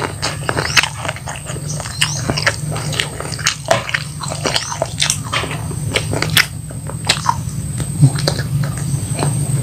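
Close-up chewing and biting of crispy flour-battered fried chicken and rice, with many irregular crunching crackles and wet mouth sounds. A steady low hum runs underneath.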